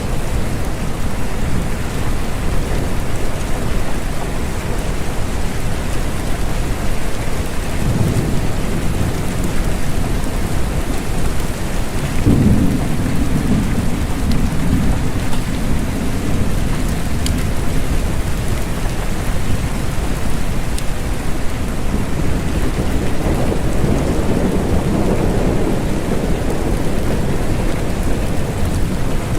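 Steady rain with thunder rumbling under it: a short rumble about eight seconds in, a louder roll that starts suddenly about twelve seconds in and dies away over several seconds, and another swelling rumble near the end.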